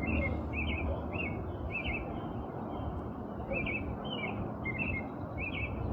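American robin singing its evening song: a run of short warbled phrases at about two a second, a pause of a second or so near the middle, then another run. A steady low background noise runs underneath.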